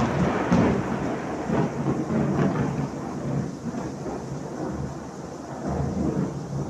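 Heavy tropical rainstorm: pouring rain with a deep rumble underneath, easing off somewhat as the seconds pass.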